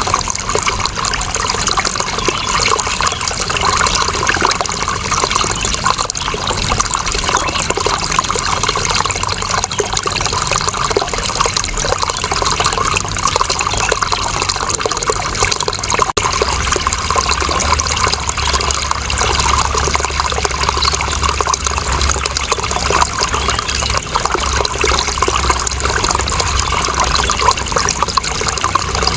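Water running steadily without a break, a continuous splashing trickle.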